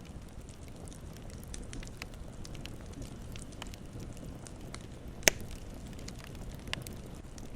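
Campfire crackling: a steady low rumble of burning with scattered sharp pops and snaps, one much louder pop a little past the middle.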